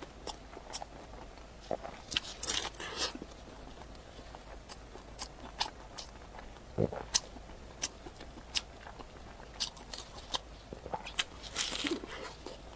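Close-up eating sounds of crisp shaobing flatbread: scattered sharp bites and crunchy chewing, with denser bursts of crunching about two seconds in and again near the end.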